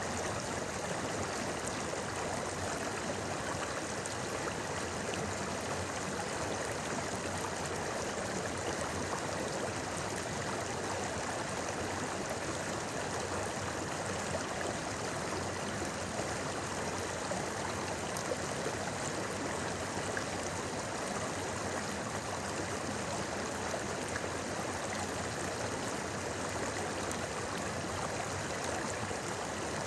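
Shallow river babbling over stones, a steady, even rush of flowing water.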